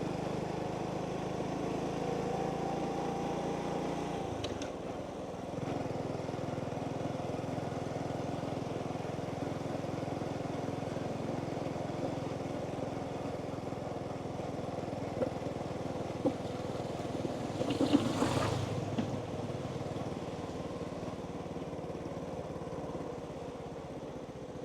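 Motorbike engine running steadily while riding, its note easing down about four seconds in and then holding. A short rush of noise about eighteen seconds in is the loudest moment.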